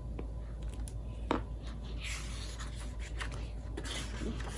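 Paper rustling and handling noises, with a few light taps and clicks and a short scratchy rustle near the middle.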